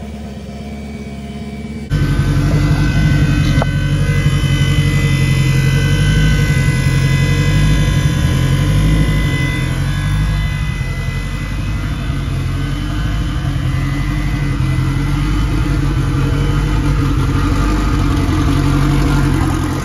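Turbocharged Honda K20 four-cylinder engine running steadily at idle. The sound steps up suddenly in loudness about two seconds in.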